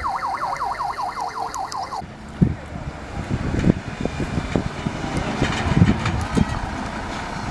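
Fire engine siren yelping in fast rising-and-falling sweeps, about five a second, that cut off abruptly about two seconds in. A rumble with irregular low thumps follows.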